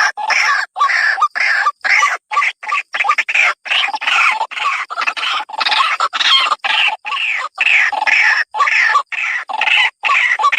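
Rail-family calls, of the kind used to lure white-breasted waterhens, played loud as a trapping lure: dense, harsh repeated calls chopped by abrupt short silences about every half second.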